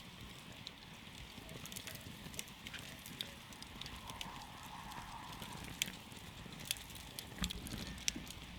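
Wood campfire burning, crackling with scattered sharp pops over a low steady rush, several louder pops in the latter half.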